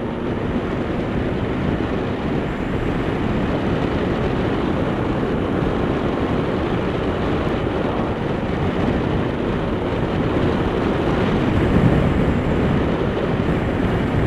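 Steady rush of wind and road noise from a motorcycle riding at highway speed, swelling a little near the end.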